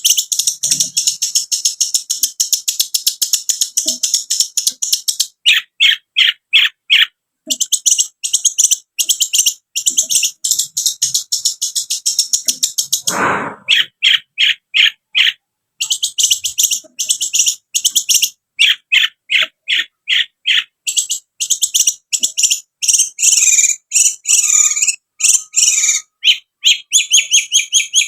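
Long-tailed shrike (cendet) singing a fast, harsh chatter of short high notes repeated in quick strings, with one rougher, lower call a little past the middle.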